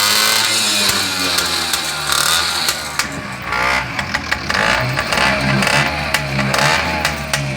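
Small moped engine running after a choked start, revved up and down several times, with a few sharp clicks over it.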